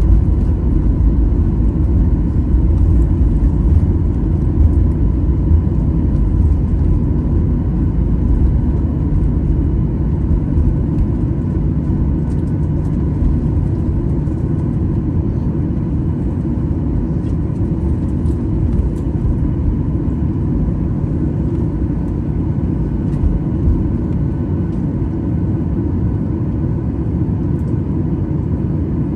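Jet airliner cabin noise: a steady low rumble of the engines and rushing air with a faint high whine, easing slightly in loudness toward the end.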